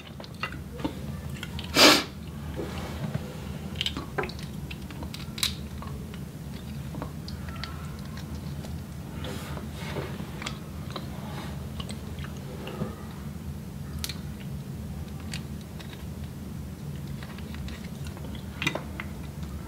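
A person chewing seafood close to the microphone, with scattered small clicks and taps from mussel shells and a fork, and one louder sharp click about two seconds in. A steady low hum runs underneath.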